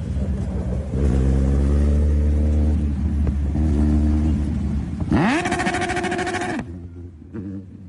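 A motor vehicle engine running, then revved sharply up to a high steady pitch that is held for about a second and a half before it cuts off.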